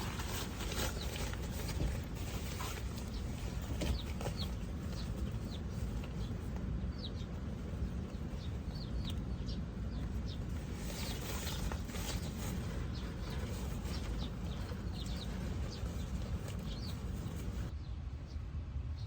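Outdoor ambience: a steady low rumble with many short, scattered high chirps that sound like small birds calling.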